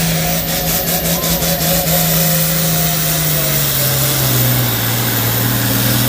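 Tractor engine running steadily, its note dropping about halfway through as it slows. A quick series of clicks comes in the first two seconds.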